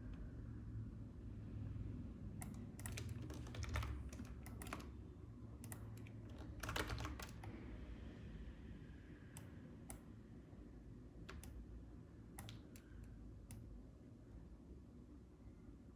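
Faint computer keyboard clicks, irregular: quick runs of keystrokes in the first half, then scattered single clicks, over a steady low hum.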